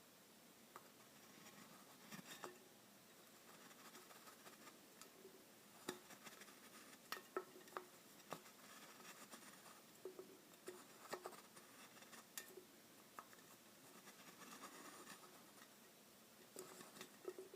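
Faint handling of an aluminium energy-drink can: scattered light clicks and taps, with soft scraping between them.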